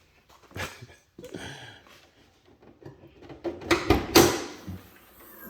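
A series of short knocks, clicks and rustles, loudest in a cluster about four seconds in.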